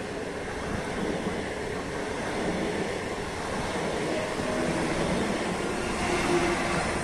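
Passenger coaches of a long-distance train rolling past along the platform as the train pulls out, a steady rumble and rush of wheels on rail that grows slightly louder toward the end, with brief faint squeal tones in the middle.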